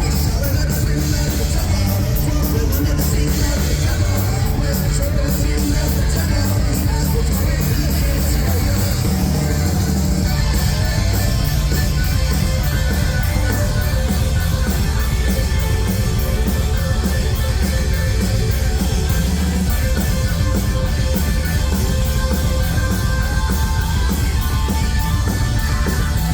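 Rock band playing live at full volume: electric guitars and drums in a dense, unbroken wall of sound, with a fast, even cymbal beat on top.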